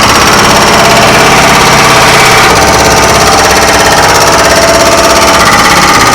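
Excavator running with its hydraulic rock breaker hammering rock in a fast, continuous rattle, loud and steady throughout.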